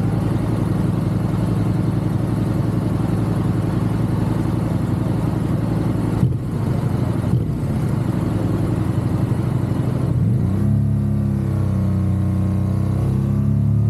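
Motorcycle engine running under way, with two brief dips in the engine sound about six and seven seconds in, like gear changes. Over the last few seconds the engine's pitch shifts up and down.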